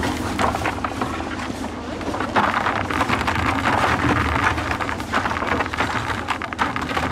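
A steady low engine hum under a dense, irregular clatter and crackle that grows louder a couple of seconds in.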